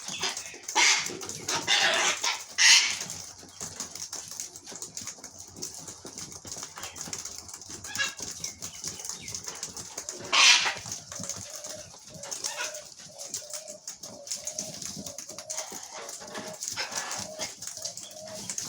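Wild birds feeding on scattered seed, their wings flapping in several short bursts near the start and again about ten seconds in. From about halfway through, a low bird call repeats evenly.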